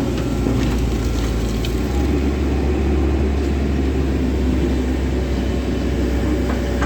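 Komatsu excavator's diesel engine running steadily with a low drone, with a few faint ticks over it.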